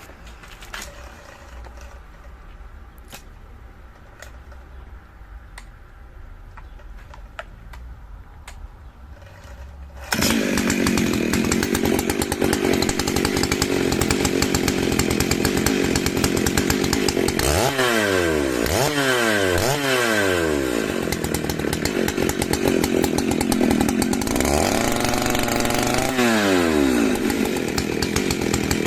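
A petrol chainsaw comes in suddenly at full speed about a third of the way in, running hard as it cuts wood. Its engine pitch drops and climbs again several times in quick succession near the middle and once more later. Before it starts there is only a quiet stretch with faint scattered clicks.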